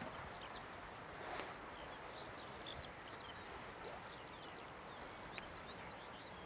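Songbirds singing: a steady run of short, high chirps and whistles, over a low hiss of wind noise.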